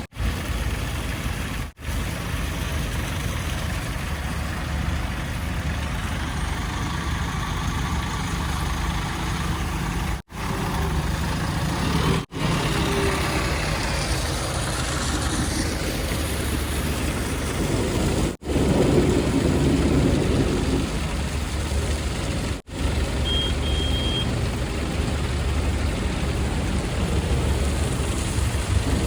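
Heavy diesel engines of earthmoving machinery and trucks running steadily with a low rumble, the sound breaking off for an instant about five times where short clips are joined.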